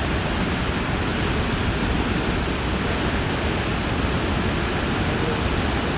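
Snoqualmie Falls' waterfall rushing with a steady, loud roar of falling water.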